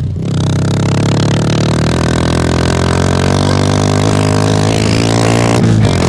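Kawasaki KLX150's single-cylinder four-stroke engine running, heard through its exhaust with a steady, even note, recorded close to the exhaust by a lapel mic with little wind noise. The pitch shifts briefly near the end.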